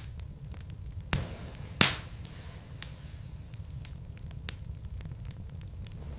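Wood logs burning in a fireplace, crackling with scattered sharp pops over a steady low rumble; the two loudest pops come about one and two seconds in.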